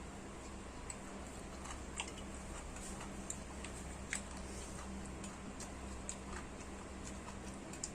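Faint eating sounds: a few scattered soft clicks and smacks while chewing, over a steady low electrical hum.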